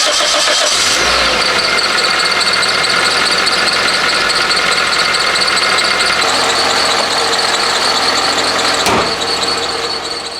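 Toyota Corolla engine running steadily after starting on its newly replaced starter motor, with a steady high whine over it. A single sharp click about nine seconds in.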